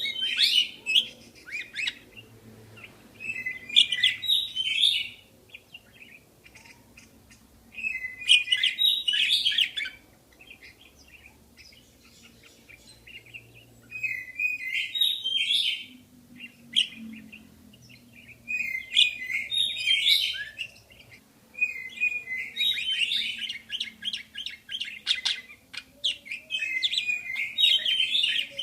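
Budgerigars chirping and warbling in quick bouts of a second or two, separated by short pauses, then running together into near-continuous chatter in the last few seconds.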